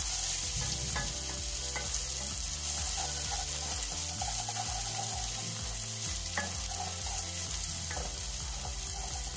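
Onions and ginger-garlic paste sizzling in hot oil in an aluminium pot, being fried off to lose their raw taste, while a wooden spoon stirs and now and then scrapes the pot. A steady low hum runs underneath.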